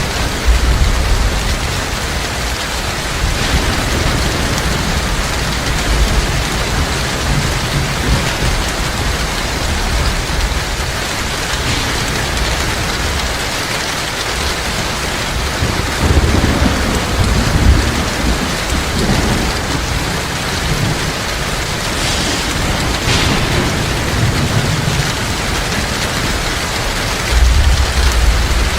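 Heavy rain falling steadily, with low rolls of thunder rumbling several times, strongest about sixteen seconds in and near the end.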